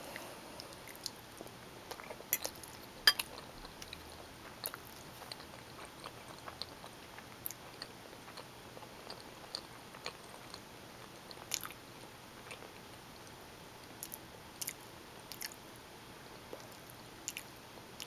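Close-miked wet chewing of bowtie pasta and sausage in tomato sauce: soft, sticky mouth clicks and smacks at irregular intervals, the loudest about three seconds in.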